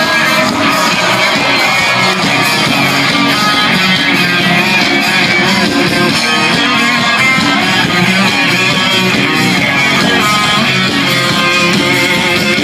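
Live rock band playing an instrumental passage, with guitar to the fore over bass and drums.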